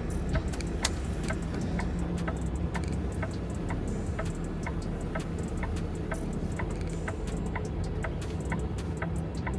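Semi truck's diesel engine running steadily, with the flasher clicking evenly about two to three times a second over it.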